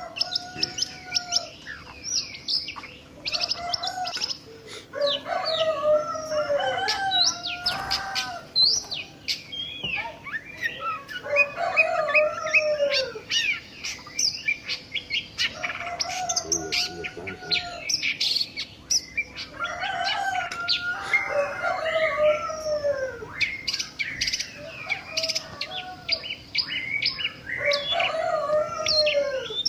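Several birds singing and chirping at once: quick high chirps overlap throughout, and a lower whistled phrase that falls in pitch recurs every few seconds.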